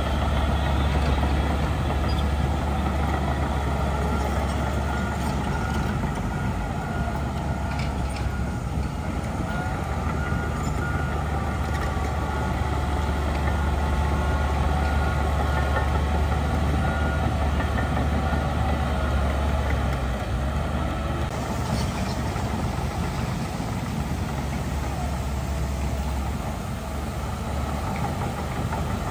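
Heavy diesel earthmoving machinery running steadily with a deep, continuous engine drone. A couple of brief knocks come through, and the low drone eases a little near the end.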